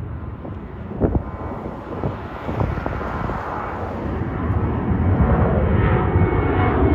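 Ryanair Boeing 737 jet airliner climbing out after take-off, its engine noise a low rumbling hiss that grows louder over the last few seconds as it nears overhead. A brief thump about a second in.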